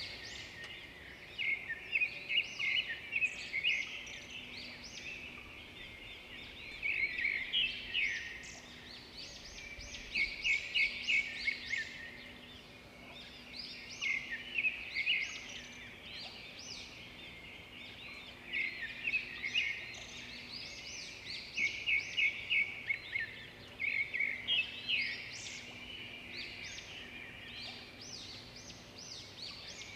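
A chorus of songbirds chirping and trilling, with bursts of rapid, high chirps every few seconds over a quieter background of more birds.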